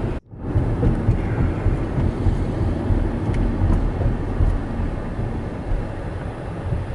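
Steady rumble of a car on the move, road and engine noise with wind buffeting the microphone, after a brief dropout just after the start.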